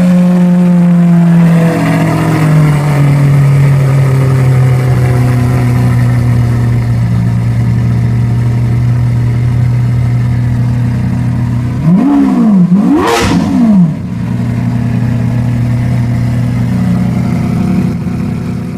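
Lamborghini Aventador LP700-4 Roadster's 6.5-litre V12 running at idle; the idle speed steps down about two seconds in. About twelve seconds in the engine is blipped twice in quick succession, the revs rising and falling each time, before it settles back to a steady idle.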